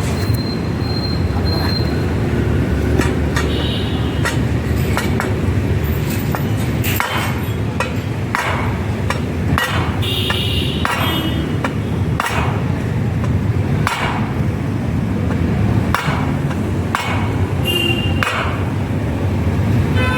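Hammer strikes on a heated, bent aluminium motorcycle mag wheel being straightened: a dozen or so irregular blows, most about a second apart in the second half, some with a short metallic ring, over a steady low rumble.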